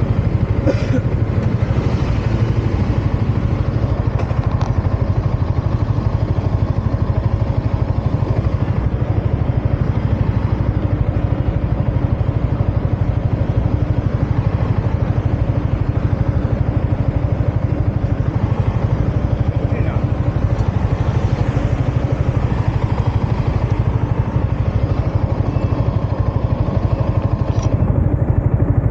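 Yamaha MT-15's 155 cc single-cylinder engine and exhaust running at a steady, unchanging pitch.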